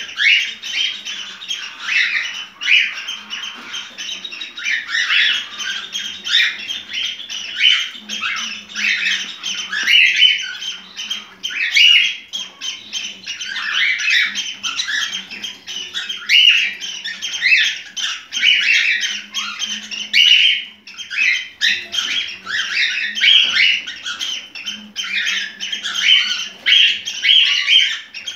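Cockatiel singing its mating song: a long, unbroken run of rapid chirps, squawks and warbled whistles.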